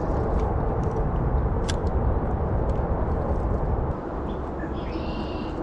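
Strong gusty wind buffeting the microphone: a steady low rumbling noise that eases slightly about four seconds in.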